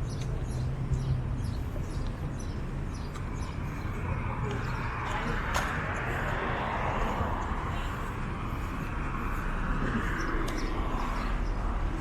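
Busy public ambience of indistinct voices chattering with steady background hum and noise, the crowd sound swelling through the middle.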